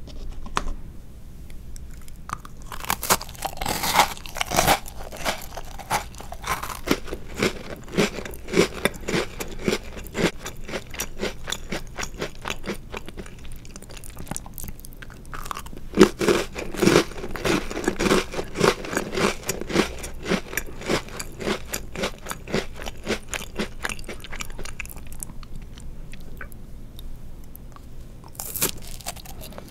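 Close-miked crunching bites and chewing of chocolate-covered Oreo cookies, a steady crackle of chocolate shell and cookie. Louder bites come a few seconds in and again about halfway, with a quieter spell of chewing before another bite near the end.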